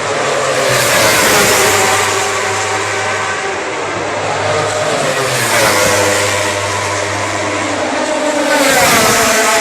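Racing motorcycles passing at speed, about three in turn, each engine's pitch falling as it goes by.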